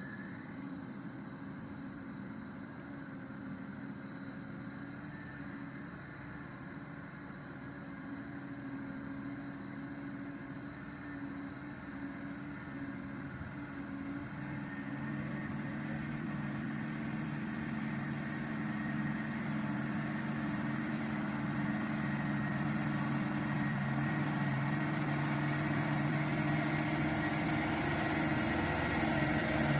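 A truck's diesel engine drones steadily as the truck pulls up the slippery slope, growing gradually louder as it comes closer. A thin, steady high-pitched whine sounds above it.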